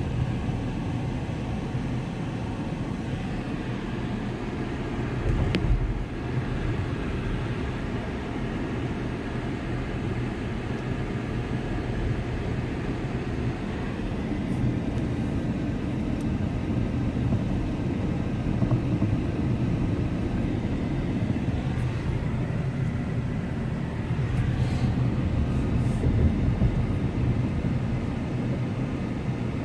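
Car driving: a steady low rumble of engine and road noise, with a brief louder bump about five seconds in.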